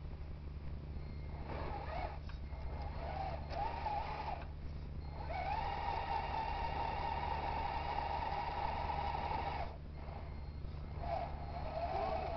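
Electric drive motor of a radio-controlled Kamaz model truck whining as it drives, over a steady low hum. The whine comes in short spells, then rises at about five seconds and holds steady for some four seconds before cutting off, and starts again near the end.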